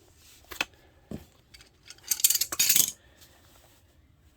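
Small metal parts clinking: two light knocks, then a louder metallic jangle about two seconds in that lasts most of a second.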